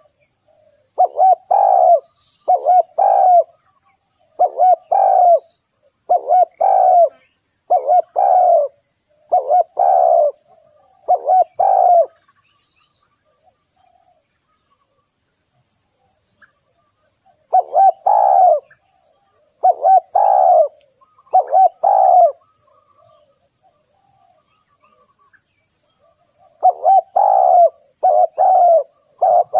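Spotted dove cooing: bouts of repeated low coos, with a pause of about five seconds after twelve seconds and another of about four seconds after twenty-two seconds. This is the kind of call used as a decoy to lure wild spotted doves.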